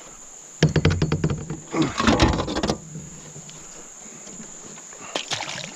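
A clatter of quick knocks and rattles with rustling, about half a second in and lasting about two seconds, from fish and gear being handled in a kayak. Crickets trill steadily throughout.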